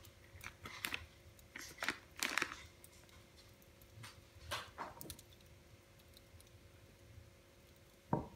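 Wood fire in a fireplace crackling, with irregular sharp pops, the loudest cluster about two seconds in and another just before the end, over a faint steady hum.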